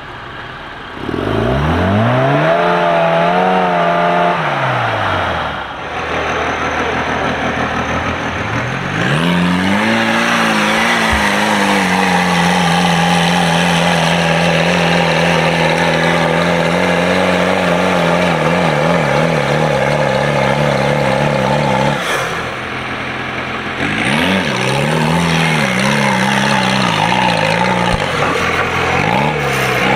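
Engines of small Suzuki Samurai-type off-road 4x4s revving hard as they climb deep sand ruts. First one rev rises and falls over a few seconds, then the engine is held at high revs for about twelve seconds, then comes a series of shorter rises and falls near the end.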